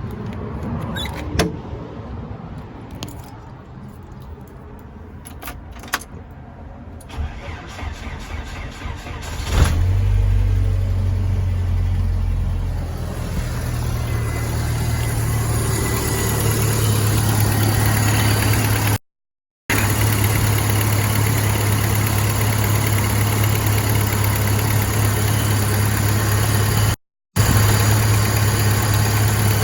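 A 1992 Jeep Wrangler's 2.5 L inline-four engine is cold-started. A few clicks and rattles come first, then the engine fires about nine and a half seconds in and settles into a steady idle with a low hum. The sound cuts out briefly twice.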